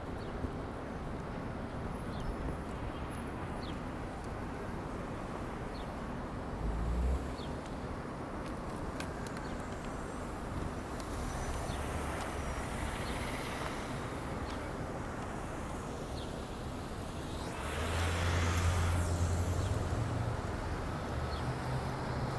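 Outdoor city ambience: a steady hiss of traffic, with a brief low thump about seven seconds in and a louder swell, like a vehicle passing, about eighteen seconds in.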